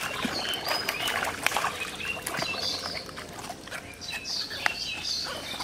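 Small birds chirping repeatedly, over scattered sharp clicks and splashes as a hooked fish thrashes at the surface of a pond and is pulled out.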